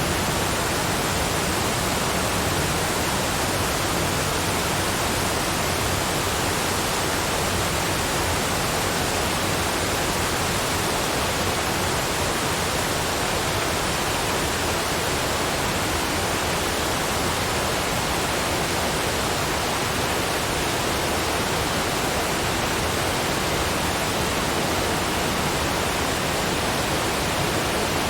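Waterfall rushing: a steady, even hiss with no change in level.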